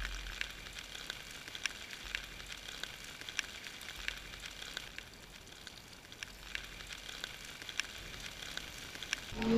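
Rain falling on a flooded street: a steady hiss with many separate sharp ticks of drops landing in the water close by.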